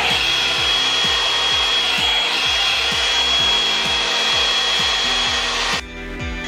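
Revlon Salon One-Step hot-air brush dryer running, a steady high motor whine over rushing air; it switches off suddenly near the end.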